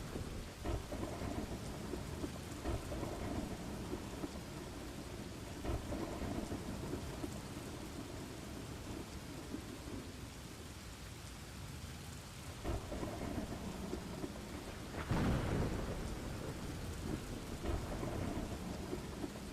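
Steady rain with repeated low rolls of thunder; the loudest thunderclap comes about fifteen seconds in.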